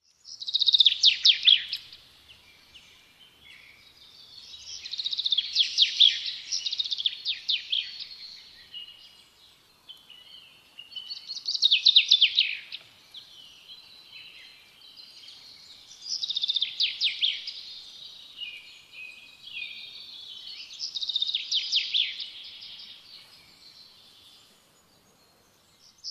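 Birdsong: a songbird sings a phrase of quick, rapidly repeated notes about every five seconds, about five times in all, with quieter chirps in between.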